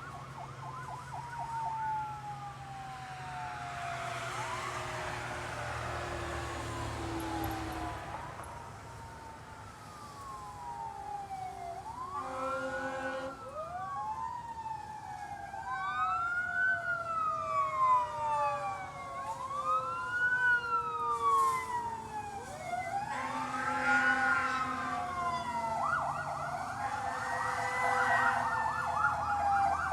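Fire engine sirens on an emergency response. An electronic siren wails up and down every few seconds over a Federal Q mechanical siren sounding in long, slowly falling tones. Short horn blasts come twice, and a fast yelp starts near the end.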